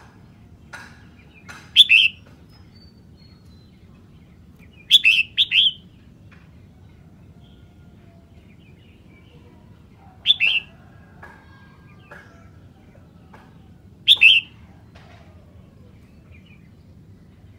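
Red-whiskered bulbul singing: four short bursts of bright phrases a few seconds apart, the second made of three quick notes.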